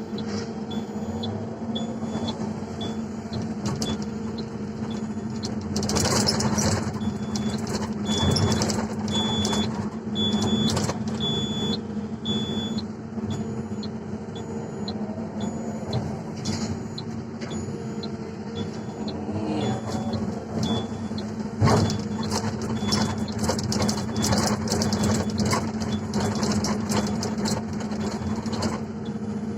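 Excavator's diesel engine running steadily under work, with repeated clattering knocks from the bucket and the load, the sharpest about twenty-two seconds in. A series of short high beeps repeats for several seconds about a third of the way through.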